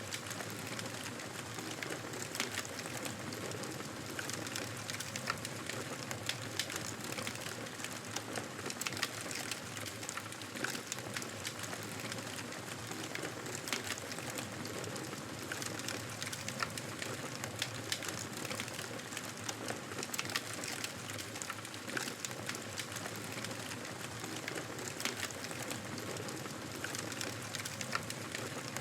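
Wood fire burning in a fireplace: a steady hiss of flames with frequent small, sharp crackles and pops scattered throughout.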